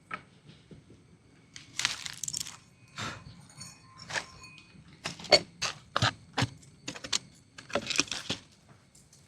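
Irregular sharp knocks, clicks and short rustles of objects being handled, about a dozen in a few seconds.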